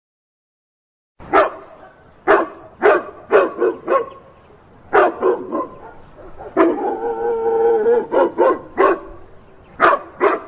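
Dog barking in short, sharp barks in irregular bursts, starting after about a second of silence. Just past the middle comes one longer held cry before the barking resumes.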